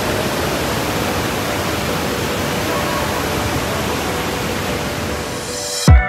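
Steady roar of a large waterfall, Iguazu Falls, as one even rush of water noise. Near the end it is cut off by a loud, sharply falling swoosh.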